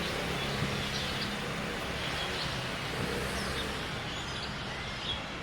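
Outdoor street ambience: a steady hum of traffic with short, repeated bird chirps.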